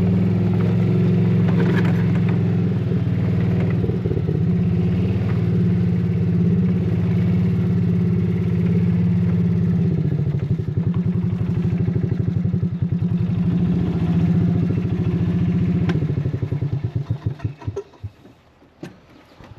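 Golf cart engine running under way, its pulses slowing about halfway through, then winding down and stopping shortly before the end as the cart comes to a halt.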